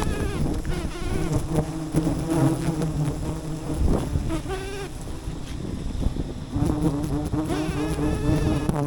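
Swarm of wild bees buzzing steadily around a forest hive being harvested, a dense drone that never lets up. A few short pitched sounds that bend up and down break through now and then.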